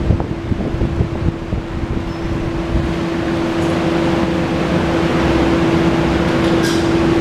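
Honda VFR800's V4 engine idling steadily, with a constant whine over a low, uneven rumble.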